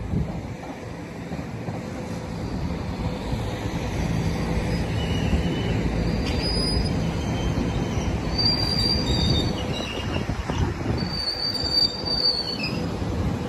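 SEPTA Regional Rail train passing, a steady rumble of wheels on the rails that grows louder over the first few seconds. Short high-pitched wheel squeals come and go in several spells in the second half.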